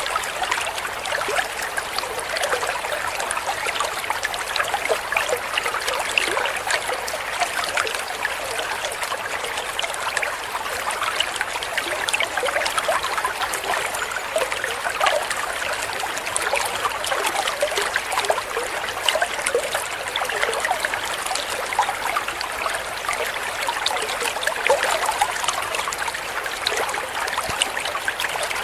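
Water trickling and splashing steadily, like a small stream.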